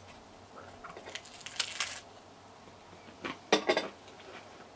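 A cream cracker topped with vegan cheese being bitten and chewed: short crisp crunches about a second in and again more loudly near the end.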